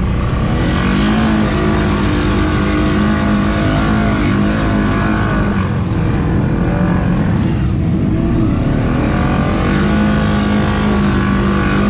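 ATV engine running and revving, its pitch rising and falling several times.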